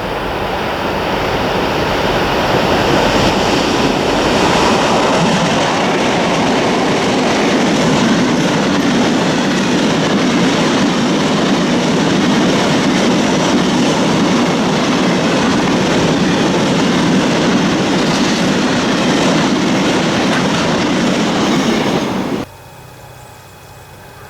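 Freight train passing close by, its wagons rolling and clattering on the rails. The sound grows louder over the first few seconds, holds steady, then cuts off suddenly near the end.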